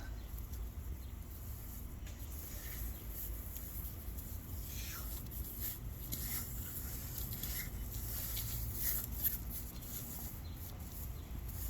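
Irregular soft scraping and brushing strokes of Quikrete concrete vinyl patch being worked over a concrete porch surface, over a steady low outdoor rumble.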